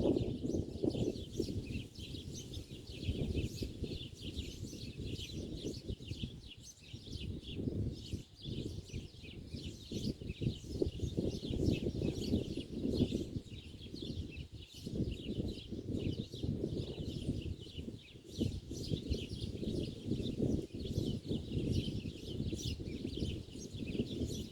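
Small birds chirping continuously, a dense run of short high chirps, over a louder, uneven low rumble.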